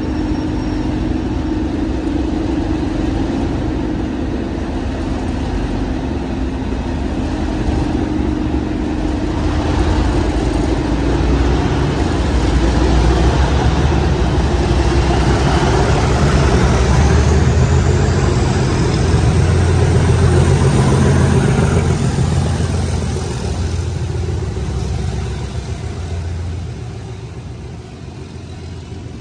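A train running at a platform: a steady engine drone that swells over about ten seconds, with a rising whine as it gets under way, then fades away near the end.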